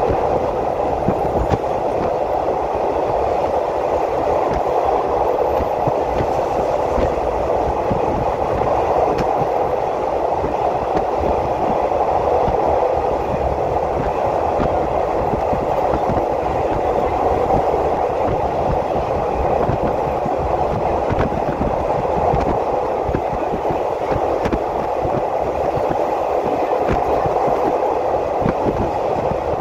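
Passenger train running at speed, heard from inside the carriage: a steady, even rumble and hiss of wheels on rails with no break or change.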